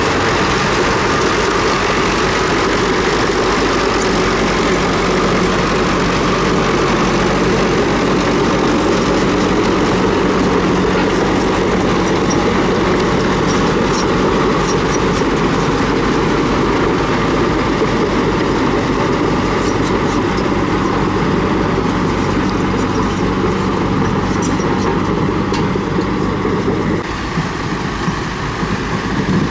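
Komatsu D31P crawler bulldozer's diesel engine running steadily under load, with scattered sharp clicks and clanks. About three seconds before the end the engine note drops and the sound becomes less even.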